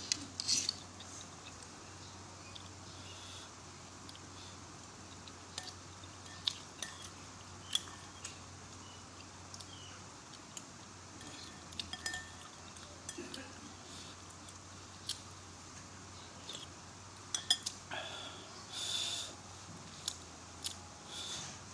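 Spoon clinking against a bowl of lugaw (rice porridge) while eating: scattered sharp clicks a second or two apart, with a longer, louder burst of noise near the end.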